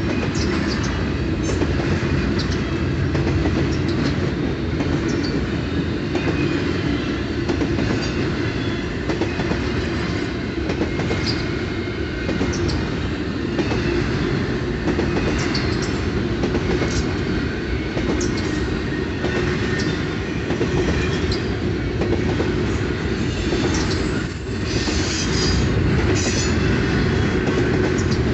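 Double-stack intermodal freight cars rolling past: a steady rumble of steel wheels on rail, with frequent clicks over rail joints and a few short high squeaks from the wheels.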